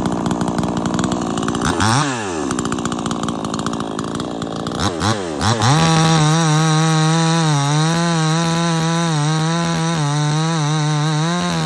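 A Proyama 68cc two-stroke gas chainsaw running hard at first. Its engine pitch drops and climbs back twice over the next few seconds as the throttle is let off and opened. From about halfway through it holds a steady high pitch that wavers slightly.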